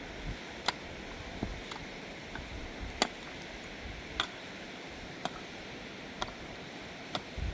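Steady rain hiss, with sharp single ticks at irregular intervals of about a second.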